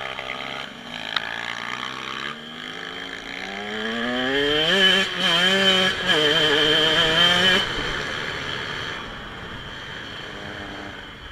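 Dirt bike engine revving up as the bike accelerates, rising in pitch and loudest about halfway through, then easing off and fading away as it passes.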